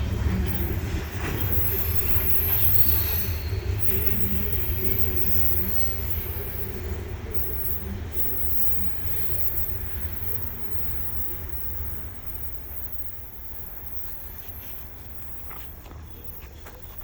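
Coal train's cars rolling past with a high-pitched wheel squeal and low rumble, fading steadily as the train moves away.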